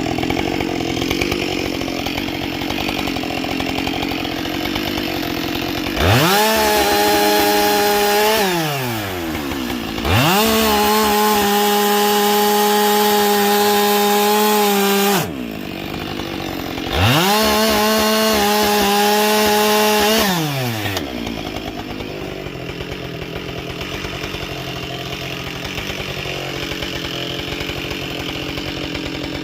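Husqvarna 572XP two-stroke chainsaw idling, then run up to full throttle three times, each time holding a high, steady pitch for a few seconds before dropping back to idle.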